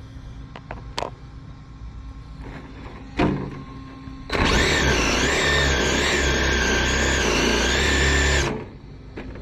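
Losi 22S radio-controlled drag car's electric motor whining at full throttle through a drag pass of about four seconds, with a steady high whine and a rushing noise that cut off abruptly. A sharp knock comes about three seconds in, shortly before the pass.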